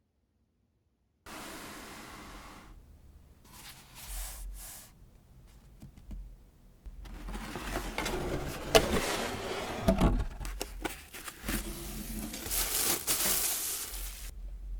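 Close-up scraping and rubbing of nail tools against nails, with many short clicks and taps, starting abruptly about a second in.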